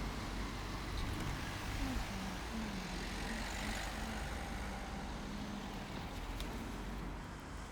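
Road traffic: a motor vehicle's engine and tyre noise passing, swelling about three to four seconds in over a steady rumble of traffic.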